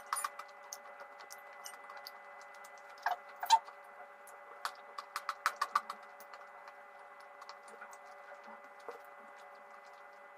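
Crunchy chalk being bitten and chewed close to the microphone: sharp crisp crunches in quick clusters, the loudest about three and a half seconds in, thinning out in the second half, over a faint steady hum.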